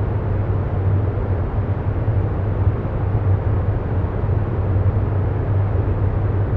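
Steady low rumbling noise with a deep hum near the bottom, even and unbroken.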